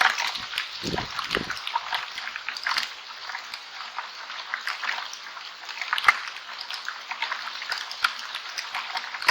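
Hail pelting a trail camera and the ground around it: a dense, irregular patter of sharp ticks and hits, with a brief low rumble about a second in.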